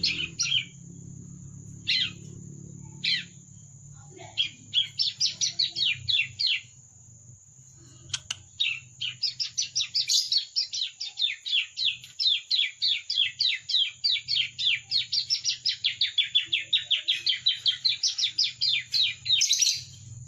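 Young bar-winged prinia (ciblek) practising its song. It gives a few single chirps, then runs of rapid, evenly repeated sweeping notes at about five a second, the longest lasting about ten seconds in the second half.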